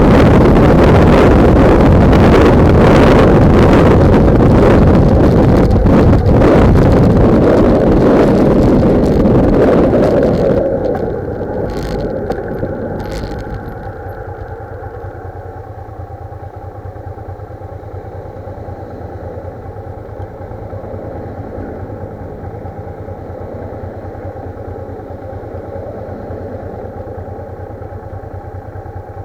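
Heavy wind noise on a motorcycle-mounted microphone while riding, which drops away sharply about a third of the way in. The motorcycle's engine then runs steadily and more quietly, with a couple of brief clicks soon after the drop.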